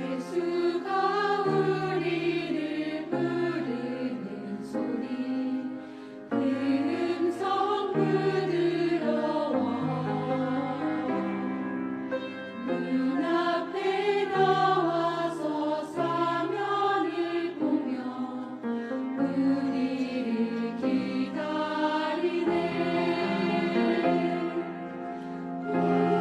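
Choir singing a Korean hymn to instrumental accompaniment, the melody moving over held bass notes that change every second or two.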